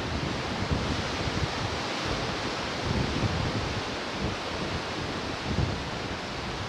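Ocean surf washing steadily into a bay, with wind buffeting the microphone in uneven low gusts.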